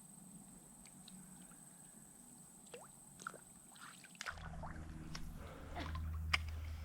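Faint creek water dripping and sloshing with small splashes and clicks. About four seconds in, a steady low rumble comes in and the splashing gets busier, with one sharper click near the end.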